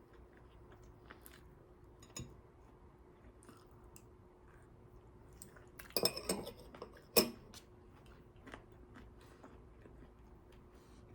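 Quiet eating and tableware sounds: scattered small clicks and clinks of cutlery and dishes over a faint steady hum, with a louder clatter about six seconds in and a sharp clink a second later.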